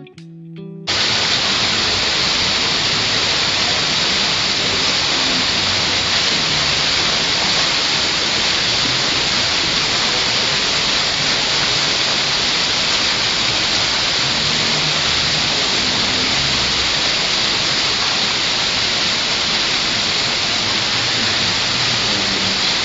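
Steady, loud hiss of even noise with no pattern or change, starting abruptly about a second in as plucked guitar music cuts off.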